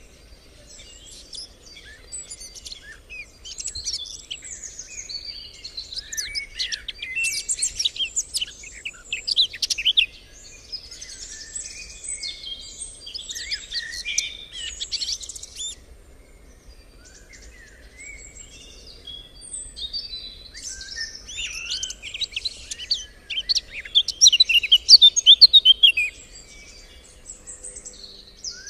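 Songbirds singing and chirping, many quick overlapping calls and trills, busiest about a third of the way in and again near the end, with a quieter spell between.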